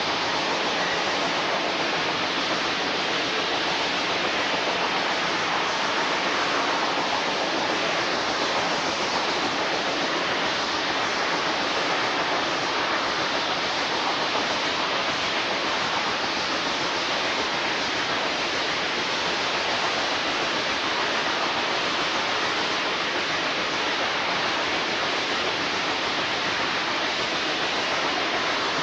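Steady rushing noise of a train in motion, heard from an open window, even and unbroken with no distinct chuffs or whistle.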